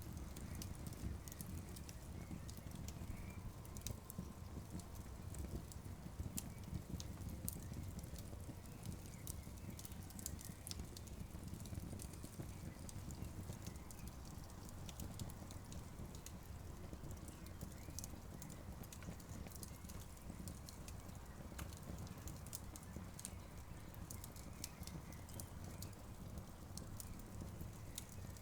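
Campfire crackling, with frequent irregular sharp pops and snaps over a steady low rumble.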